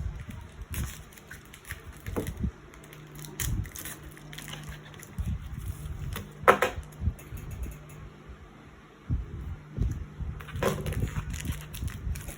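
Packaging and photocard sleeves being handled: irregular rustling, crinkling, taps and soft bumps, with a sharper crackle about six and a half seconds in, over a steady low hum.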